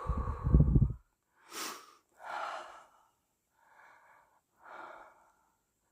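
A person breathing heavily, with four or five separate breathy exhalations about a second apart after a loud low rumble in the first second.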